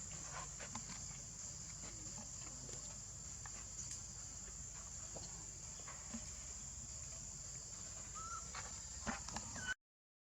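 Outdoor forest ambience: a steady high-pitched insect-like buzz with faint scattered rustles and ticks, a short rising chirp a little before the end, then the sound cuts out briefly.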